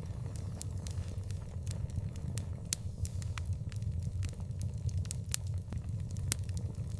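Fire burning in an outdoor fireplace, crackling with many irregular sharp pops and snaps over a steady low rumble.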